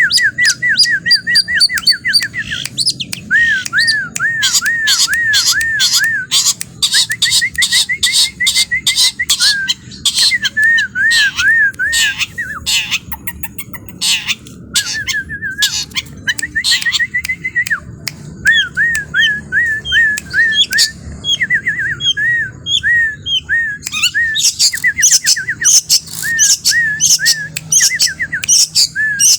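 Songbird singing loudly: long runs of rapid, repeated looping chirps, broken by many sharp, short chip notes.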